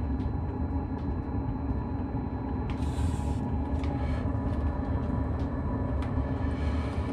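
Hcalory diesel air heater running shortly after start-up, its blower fan and burner giving a steady low rumble and hum, with a few faint ticks and brief hissing swells.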